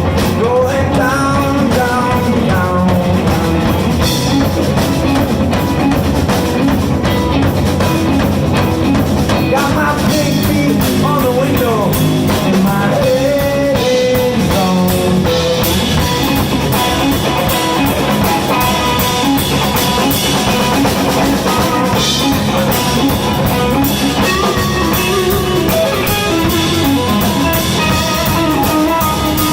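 Blues band playing live: guitar leads over a drum kit with a steady beat.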